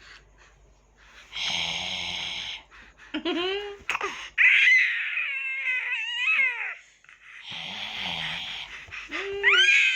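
Baby vocalizing: twice, a breathy, strained sound is followed by high, wavering cries and squeals that slide up and down in pitch.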